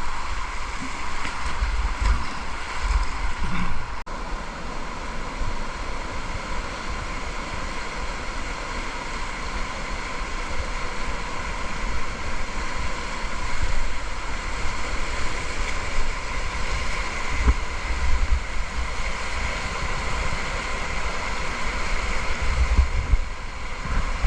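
River water rushing steadily through a whitewater stretch, heard from a kayak, with wind buffeting the microphone in irregular low rumbles.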